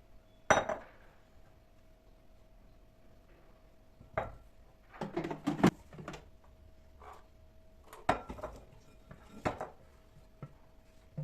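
Kitchen handling sounds: a few separate knocks and clinks of dishes and utensils being set down and moved, with a short cluster of clatter around the middle, over a faint steady hum.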